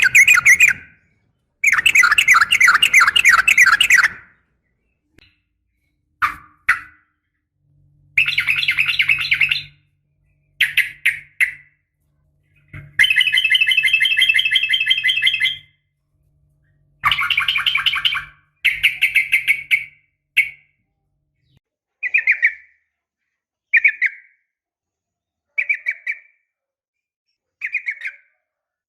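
Yellow-vented bulbul (trucukan) song, a lure recording billed as a female calling a male: fast, bubbling trilled phrases repeated with short gaps. The first phrases last two to three seconds each, and towards the end they shrink to short chirps about every two seconds.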